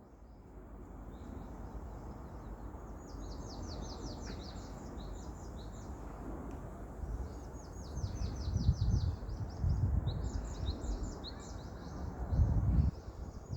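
Small birds singing in rapid, repeated chirping trills over steady wind. Strong gusts of wind buffet the microphone about two thirds of the way in and again near the end, and these are the loudest sounds.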